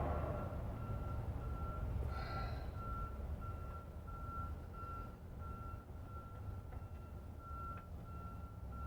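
A vehicle's reversing alarm beeping at a steady pitch, about two beeps a second, over a low rumble.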